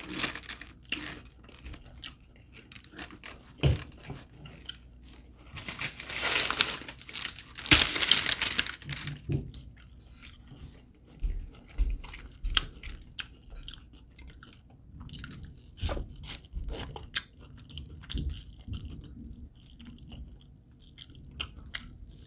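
Close-miked chewing and crunching while eating crispy fried chicken wings, with frequent sharp bite and mouth clicks. A louder, denser stretch of crunching comes about six to eight seconds in.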